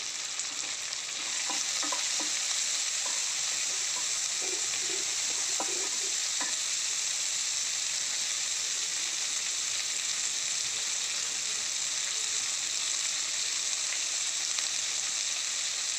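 Onions, peanuts, chana dal, curry leaves and green chillies sizzling in hot oil in a metal kadai, a steady hiss that swells about a second in. A few light knocks of a wooden spatula against the pan in the first half.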